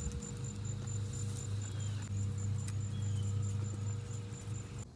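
An insect trilling in a steady run of high-pitched pulses over a louder steady low hum.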